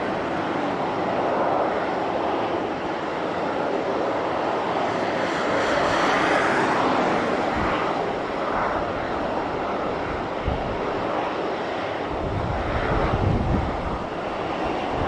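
Boeing 737-800 jet engines on landing approach, a steady jet roar that swells loudest about halfway through as the plane passes. Gusts of wind buffet the microphone near the end.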